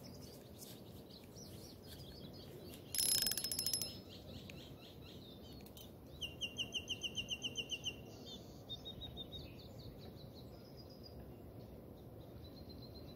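Small birds calling: a fast trill of about a dozen quick, evenly spaced notes around six seconds in, then scattered short chirps. The loudest sound is a brief rattling burst about three seconds in.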